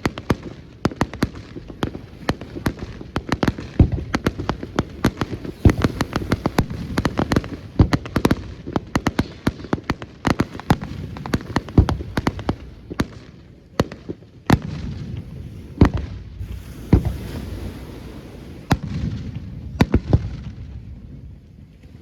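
Fireworks display: a rapid, irregular barrage of aerial shell bursts and crackling bangs, several a second, over a low rumble, thinning slightly in the second half.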